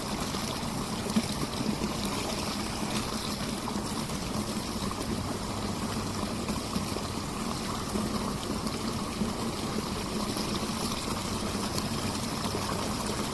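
Mountain stream flowing steadily, a constant rushing of water with a few brief sharp snaps over it.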